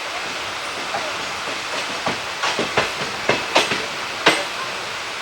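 Moving ICF passenger train coach: a steady running rumble, with a cluster of sharp wheel clacks over the track joints starting about two seconds in; the loudest clack comes near the end.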